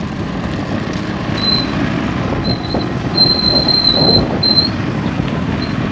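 Steady rumble of a small motorcycle riding along, with wind and road noise. A thin, high squeal comes and goes from about a second and a half in until about four and a half seconds.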